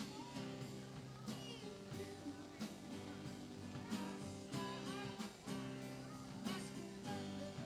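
Live band playing a rock tune with electric guitar and a drum kit keeping a steady beat.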